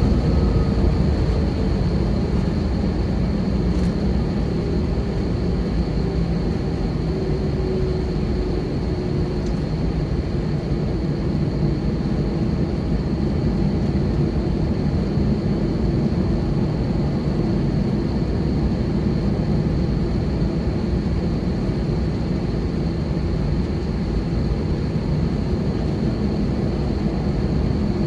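Cabin noise of an Airbus A320 taxiing after landing: a steady low rumble with a steady high whine, and a faint tone sliding slowly down in the first ten seconds or so.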